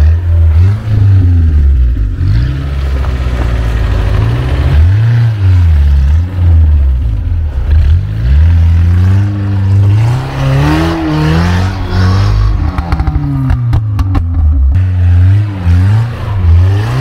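Niva 4x4 engine revving hard, its pitch swinging up and down again and again. A run of clattering knocks comes near the end.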